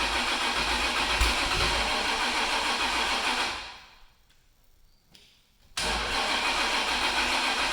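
The engine of a 545 cubic inch twin-turbo Ford big block is being started. It runs for about three and a half seconds, then winds down and stops. After about two seconds of near silence it cuts back in sharply on a second start attempt.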